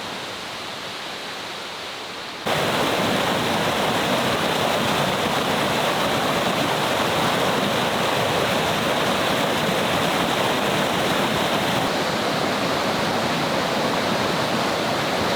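Waterfall's falling water rushing steadily, suddenly much louder from about two and a half seconds in.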